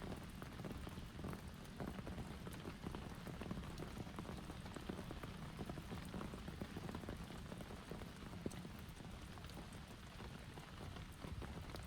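Heavy rain falling steadily, with many individual drops ticking sharply on a nearby surface.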